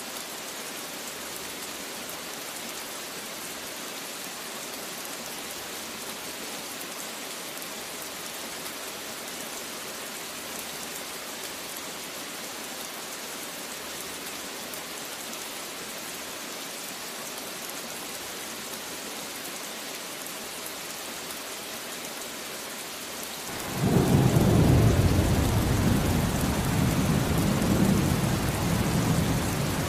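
Steady rain falling, with a sudden loud rumble of thunder breaking in near the end and rolling on, slowly easing off.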